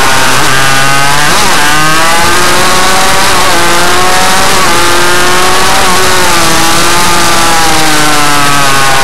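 RM 85 minimotard motorcycle engine running at high revs, its pitch rising and falling several times as the throttle is worked, with a dip about a second and a half in.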